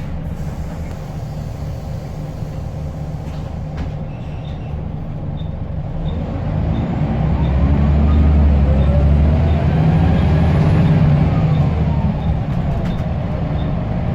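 Scania L94UB bus engine pulling away under load, its drone growing louder about halfway through, with the turbocharger whistling as it climbs and falls in pitch.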